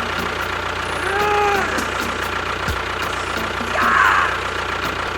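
An engine running steadily at idle. A tone rises and falls a little over a second in, and there is a short brighter burst near four seconds in.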